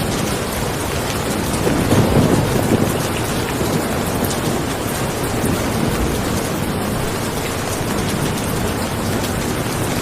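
Steady heavy rain falling, with a low rumble swelling briefly about two seconds in.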